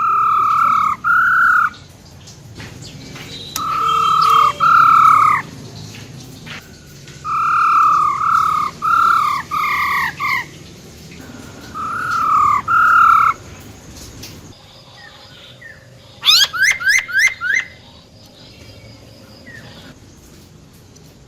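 Female black-throated laughingthrush giving its 'ro ro' call: short, downward-bending notes repeated in four clusters. Near the end comes a quick run of sharp up-and-down whistles.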